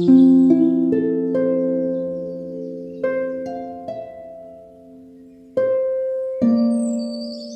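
Harp playing a slow, gentle melody: single plucked notes about every half second to second and a half, each ringing out and fading, over a lingering low chord. A bird chirps near the end.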